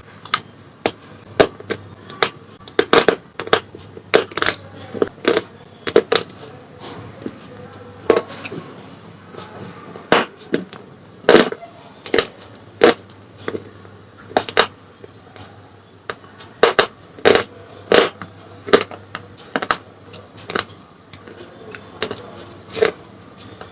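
Slate pencil being bitten and chewed close to the microphone: sharp, crisp crunches at irregular intervals, about one or two a second, some louder than others.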